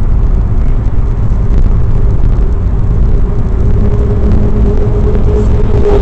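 A motor vehicle moving at speed: loud, steady rumble of road and wind noise, with a faint engine hum that rises slightly in pitch near the end.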